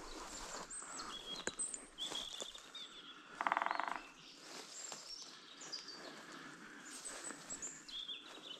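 Several wild songbirds chirping and singing in short high phrases. A little over three seconds in comes one loud, fast rattling call lasting about half a second.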